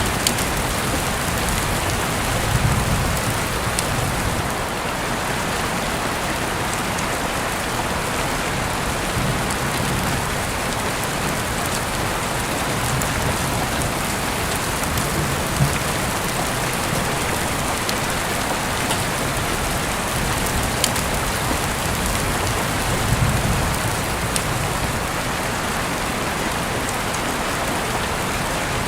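Steady rain falling, an even hiss with a few brief low rumbles.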